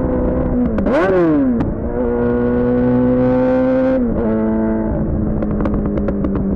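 Suzuki GSX-R600's inline-four engine through a Yoshimura R11 exhaust, running at steady revs while riding. About a second in the revs dip and briefly rise and fall in a quick blip, then hold steady; about four seconds in they drop to a lower steady pitch.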